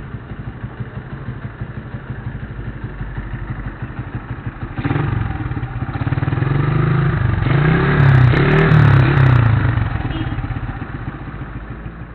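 Yamaha Vixion single-cylinder four-stroke engine, converted to a PE28 carburettor and breathing through an FU aftermarket exhaust, idling. About five seconds in it is revved, with three or four quick rising-and-falling blips, then it drops back toward idle near the end.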